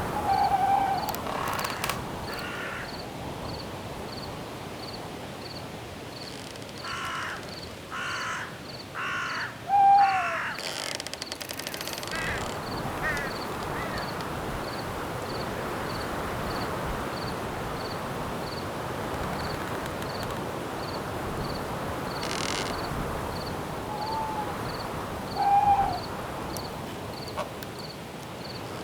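Night forest ambience: a steady wind-like hiss with a cricket chirping about twice a second, short hooting bird calls now and then, and a run of four harsh crow-like caws in the middle.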